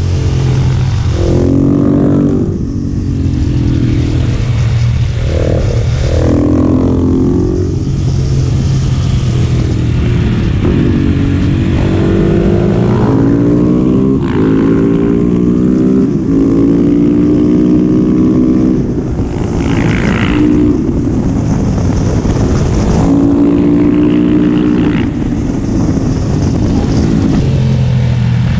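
Single-cylinder 690 cc LC4 supermoto engine running loud, its revs rising and dropping back again and again.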